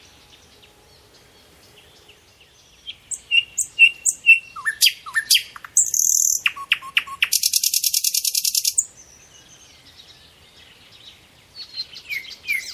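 Birds chirping and calling: after a few quiet seconds, a run of short high chirps and whistles, then a fast buzzy trill lasting about a second and a half, then quiet again before chirping resumes near the end.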